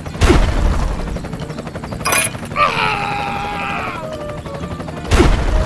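Two loud booming impacts about five seconds apart, with a sharp crack about two seconds in and a wavering tone that drops slightly in pitch between them.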